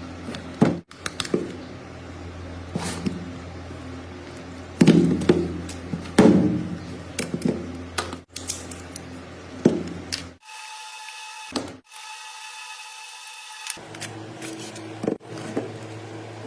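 Tools and metal parts being handled and knocked, with scattered sharp knocks and scrapes over a steady low hum. The low sounds drop out for a few seconds after the middle.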